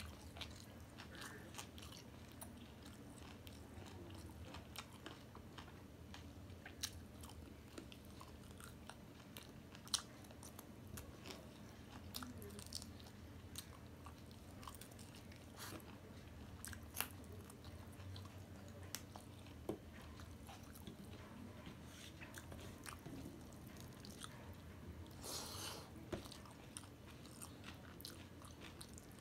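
Close-up eating sounds: chewing and biting with small wet mouth clicks as rice, curry and duck meat are eaten by hand, including meat gnawed off a duck bone. A faint steady hum runs underneath, and one sharper click stands out about ten seconds in.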